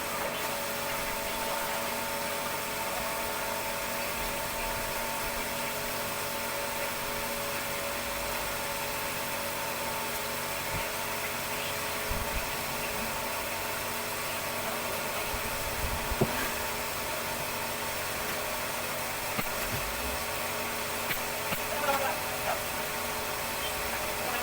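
A steady machine drone holding a constant pitch and level, with a few light knocks.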